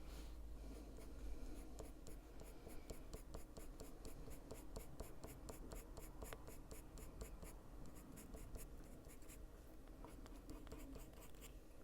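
Luminance coloured pencil scratching on paper in quick, short repeated strokes, filling in a line on a drawing; faint.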